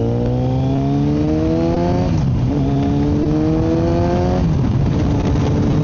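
Kawasaki Z900's inline-four engine through a full M4 aftermarket exhaust, accelerating away from low speed. The revs rise, drop at an upshift about two seconds in, rise again and drop at a second shift a little after four seconds, then climb gently. It is heard from a mic inside the rider's helmet.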